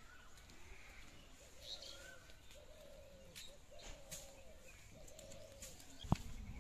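Birds calling: a low call repeated about once a second, with a few higher chirps over it. A sharp knock about six seconds in.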